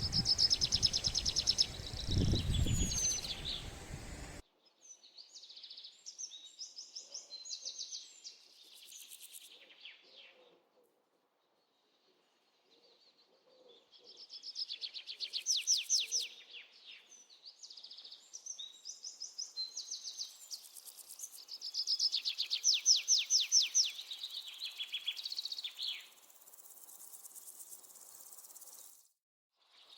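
Songbird singing in phrases of rapid, high trilled chirps a few seconds long, with short pauses between phrases.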